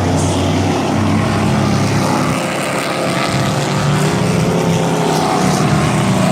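A pack of dirt-track race trucks running flat out around a quarter-mile oval: several engines at once, loud and steady, their notes shifting in pitch, dropping about halfway and climbing again.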